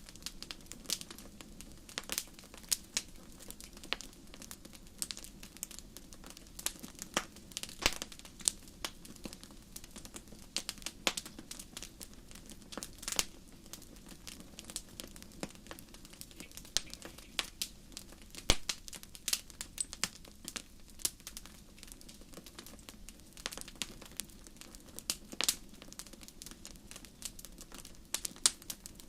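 Campfire burning, its wood crackling with irregular sharp pops.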